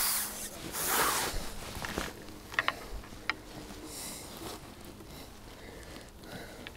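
Close rustling and handling noise with a few sharp clicks, as a just-landed roach is dealt with.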